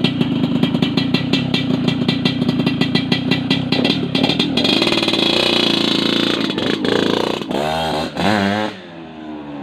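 Yamaha RX-King's two-stroke single-cylinder engine running with the rough, 'ngorok' (snoring) exhaust note, in fast even pulses at first. About halfway through it holds a steadier, higher note, then wavers up and down and drops back quieter near the end.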